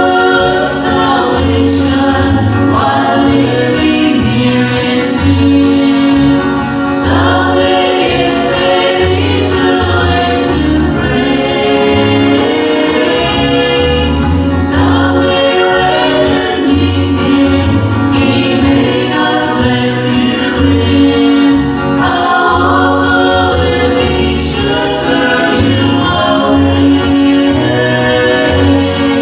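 Gospel vocal group singing together, with a pulsing bass line in the accompaniment.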